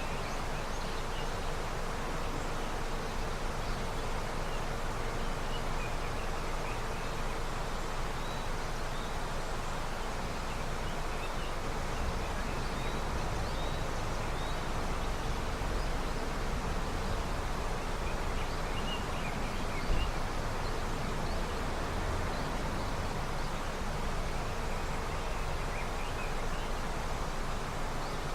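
A river running high with snowmelt: a steady rush of flowing water.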